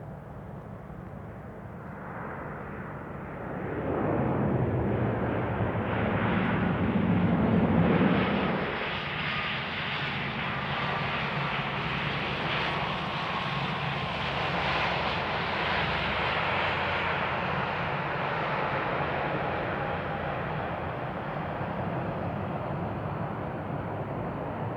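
Jet engines of an ANA Boeing 787-8 airliner during its takeoff. The engine noise swells about four seconds in with a deep rumble, is loudest for a few seconds, then carries on as a steady jet roar.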